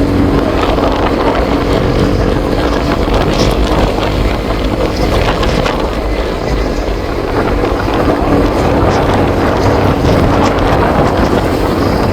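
Vehicle engine running steadily while on the move, heavily buffeted by wind on the microphone.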